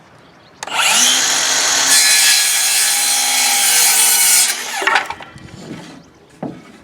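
Electric power saw spinning up about half a second in, running and cutting 2x2 lumber for about four seconds, then winding down, followed by a few light knocks of wood being handled.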